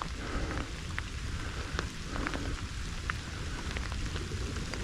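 Steady light rain falling, with scattered drops ticking close by.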